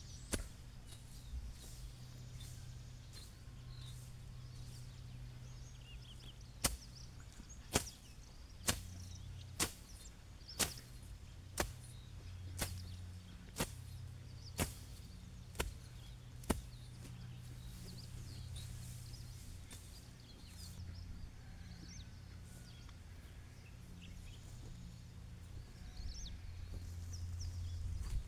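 Sharp chopping strokes of a blade cutting grass fodder: a few scattered strokes, then a steady run of about one a second for some ten seconds.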